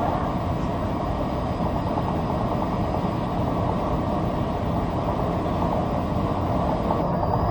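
Steady engine drone of a light aircraft heard from inside the cabin: a dense, even low rumble that holds without change.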